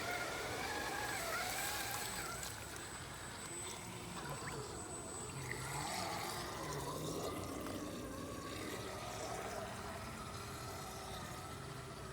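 Water trickling and splashing around a Redcat Gen8 RC scale crawler as it works through a creek. Its electric motor whines, rising and falling with the throttle.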